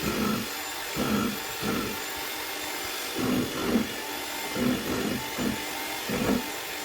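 A small electric mixer running steadily with a high whine, mixing casting powder and water to break up lumps, with irregular low knocks and scrapes of the mixing blade against the container.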